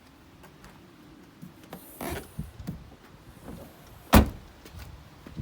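Small clicks and rustles of handling at the back of a hatchback, then one loud thump about four seconds in as the tailgate is shut.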